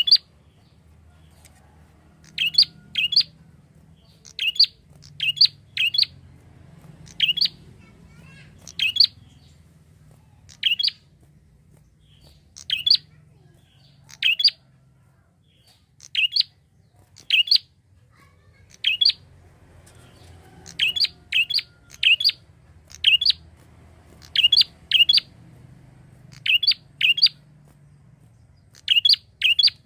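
Prinia (prenjak) calling: short, sharp, high chirps, given singly or in quick runs of two or three, repeated every second or two.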